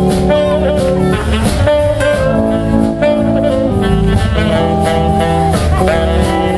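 Live blues band playing an instrumental passage, a saxophone carrying the melody with held, bending notes over guitar, bass and drums.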